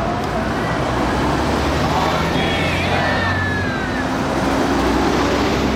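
Steady road traffic rumble, with vehicle engines running and faint voices in the background.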